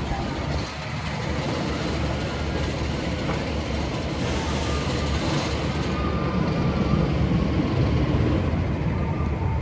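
Steam train of the Cedar Point and Lake Erie Railroad, the locomotive Judy K, running along the track: a steady rumble of the train in motion.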